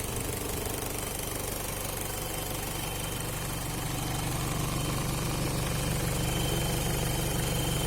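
Warmed-up Toyota 1KZ-TE 3.0-litre four-cylinder turbodiesel running steadily at idle, with a diesel clatter over a low hum, growing a little louder from about four seconds in.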